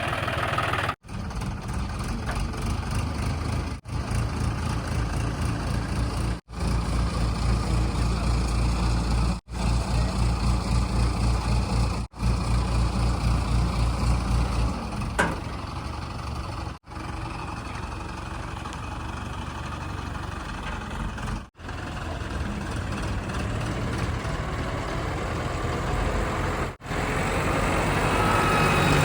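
Diesel engines of heavy machinery and trucks running steadily, with the sound cut off briefly every few seconds.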